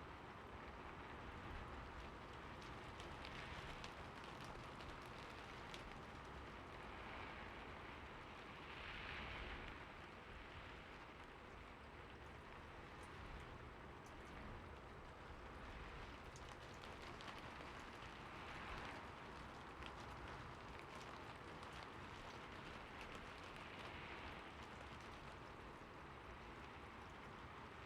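Light rain falling steadily: a soft, even hiss with scattered drop taps, swelling slightly a few times.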